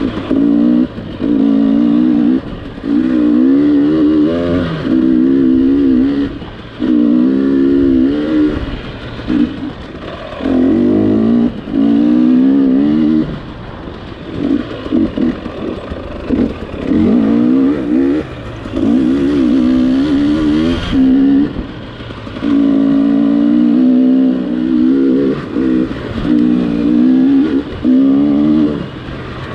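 Gas Gas EX300 TPI two-stroke dirt bike engine being ridden hard over rough trail, revved in short throttle bursts that rise and fall in pitch and drop back every second or two.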